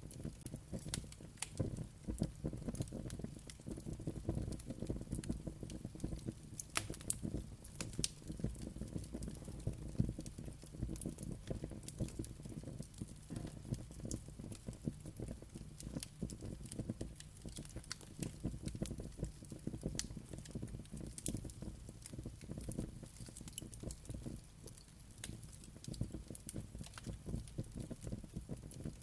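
Wood fire crackling and popping, many sharp pops and snaps over a low steady rumble of the flames.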